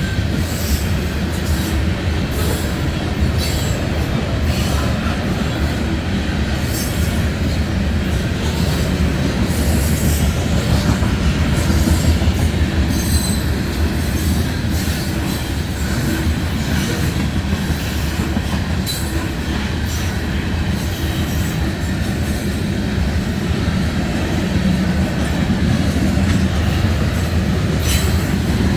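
Norfolk Southern freight train's cars rolling past steadily, the wheels clicking over the rail joints, with brief high wheel squeals now and then.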